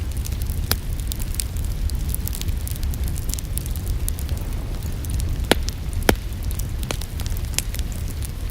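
Wood fire crackling in a fireplace: many small snaps over a steady low rumble, with a few louder pops, two close together past the middle.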